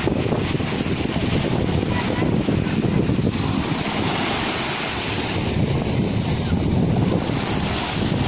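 Sea waves washing and breaking in a steady rush, with wind buffeting the microphone in a low rumble.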